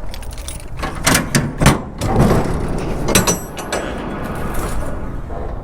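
Metal clanks and knocks on a steel shipping container, several sharp strokes with a short metallic ring about three seconds in, as the container is checked for whether it is empty.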